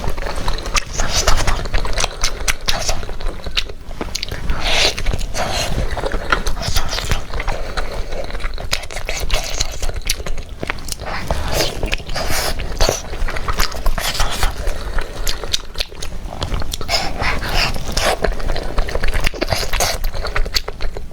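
Close-up chewing and biting of pork skin: continuous wet chewing with many sharp, crunchy clicks.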